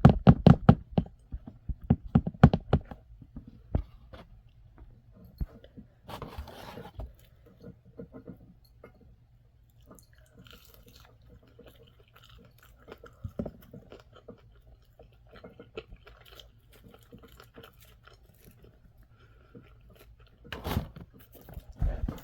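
Close-up chewing and crunching of fried food, loudest and busiest in the first few seconds, then quieter scattered mouth and handling clicks.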